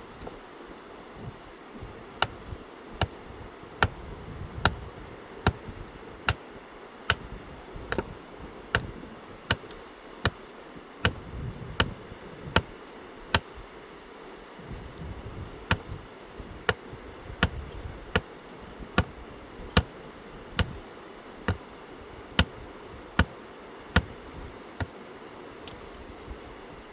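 Steady rhythmic striking: sharp, clinking hits a little more than once a second, over the steady rush of the river.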